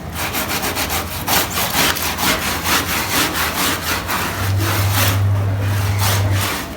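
A stiff brush scrubbing a soaked carpet in quick back-and-forth strokes, several a second. A low machine hum comes in about four and a half seconds in.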